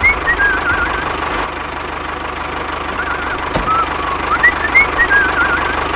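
Small engine running at a steady idle with a fast, even low knock. Over it, short wavy high chirps repeat in the same pattern twice, with a sharp tick between them.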